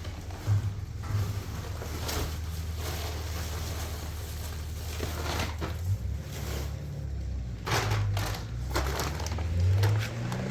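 Dry wood crunching and snapping several times, in irregular sharp crackles over a steady low rumble.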